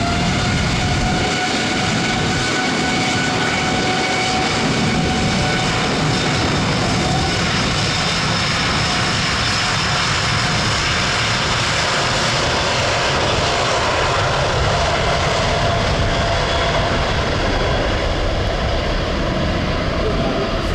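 Jet engines of an Airbus A330-900 airliner running at high power in a loud, steady roar. Whining tones rise and then hold as the engines spool up, and the whine sinks into the roar after several seconds.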